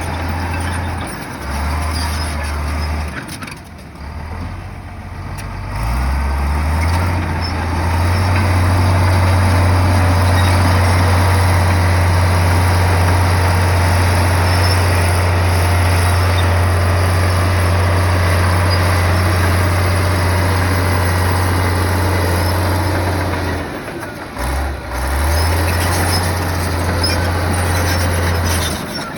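Komatsu bulldozer's diesel engine working. It runs lower and dips in the first few seconds, revs up about six seconds in, holds a steady, loud pull, then drops briefly near the end before picking up again.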